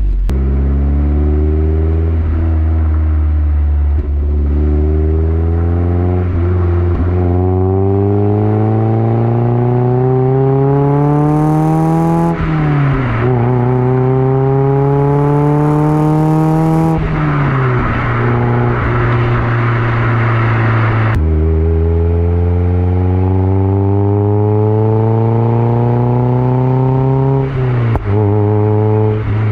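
1999 Mazda MX-5 Miata's four-cylinder engine heard through a Yonaka aftermarket axle-back exhaust, accelerating through the gears. The exhaust note climbs steadily in pitch, then drops sharply at each upshift, four or five times over.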